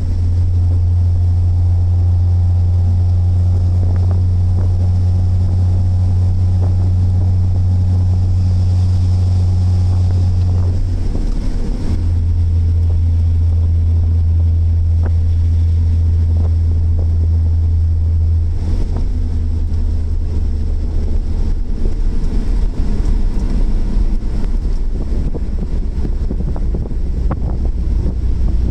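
Engine and cabin noise of a BMW 3 Series track car at speed, heard from inside: a loud, steady low engine drone, with a brief break about eleven seconds in. After about eighteen seconds the drone gives way to a rougher, more uneven rush of noise.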